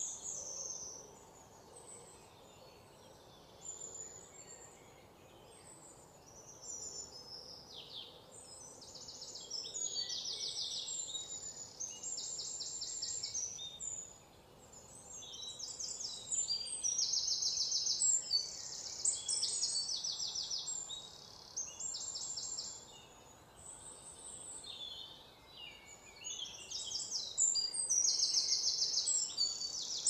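Small birds chirping and calling in high, rapid trilled phrases of about a second each, repeated again and again, over a faint steady outdoor background.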